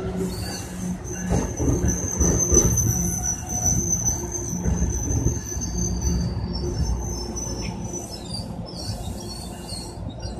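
Passenger train rolling along the platform with a low rumble and a high, thin squeal that holds for about six seconds, the whole sound slowly fading.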